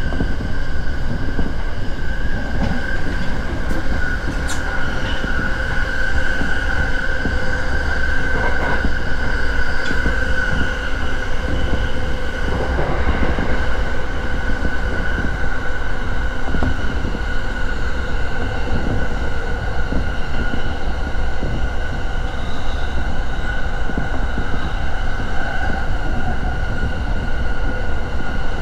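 Running noise of a JR East E231-series electric commuter train heard from inside the carriage: a steady rumble of wheels on rail with a steady high whine over it.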